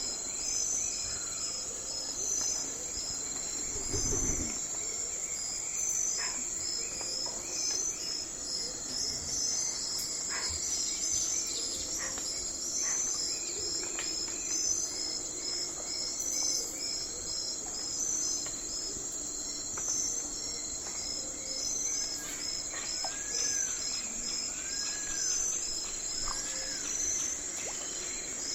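Night forest ambience: crickets chirping steadily in an even, rhythmic pulse, with scattered short bird calls over it. A dull low thump comes about four seconds in, and near the end there are three short rising-and-falling calls.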